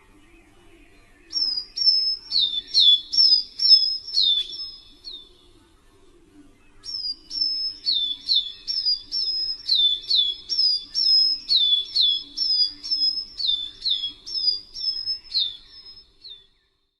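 A songbird calling a rapidly repeated two-note phrase: a high whistle, then a lower note that slurs down, about two phrases a second. It calls in two bouts, a short one near the start and a longer one after a pause of about a second and a half.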